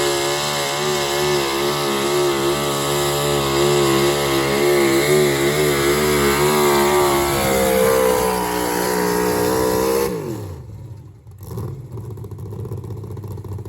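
A 4wd pulling truck's engine running hard under load, its note wavering rapidly up and down and rising slightly near the end. About ten seconds in the engine winds down quickly and the sound drops away.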